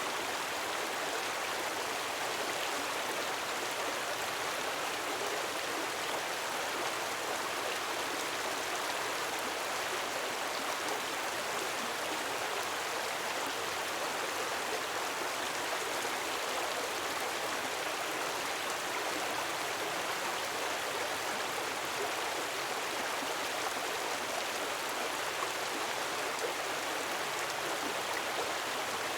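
Gentle waterfall: a steady, even rush of falling water that does not change in level.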